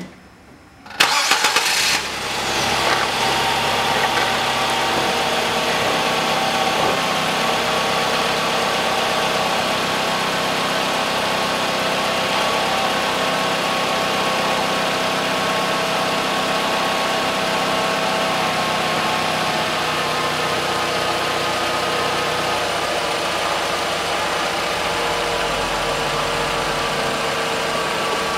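Nissan Qashqai's 2.0-litre four-cylinder petrol engine started with a short crank about a second in. It catches and settles into a steady idle.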